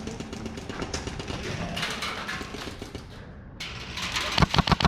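Airsoft gun firing a rapid automatic burst of sharp cracks, about seven or eight a second, starting near the end after several seconds of rustling noise.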